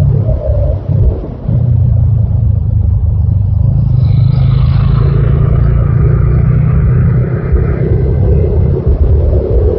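TVS Apache RTR 200 4V's single-cylinder engine running under way, a loud, steady low rumble, heard from the rider's seat. The engine eases off briefly about a second in, then pulls steadily. A fainter, higher sound with several tones joins from about four to eight seconds in.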